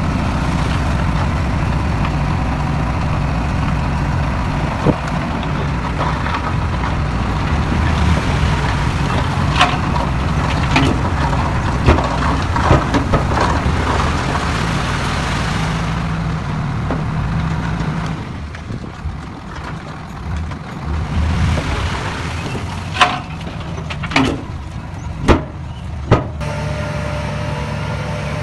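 Heavy diesel earth-moving machinery running steadily, its engine dropping off after about eighteen seconds, then several sharp knocks a second or so apart near the end.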